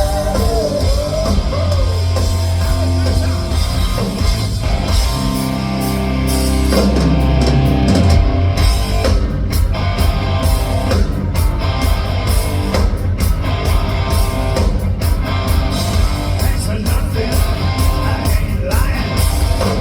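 Live hard rock band playing an instrumental passage: distorted electric guitar, bass and drum kit. A sustained low note slides down about halfway through, then the drums drive on steadily.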